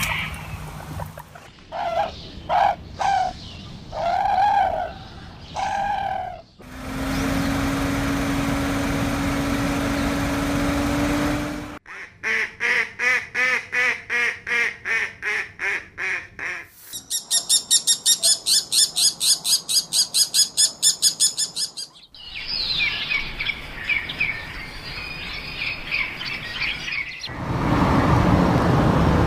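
A run of different animal sounds, one after another: a few short calls, then a steady hum, then rapid repeated calls about five a second, then a fast high trill, then bird chirping, ending in a steady noise.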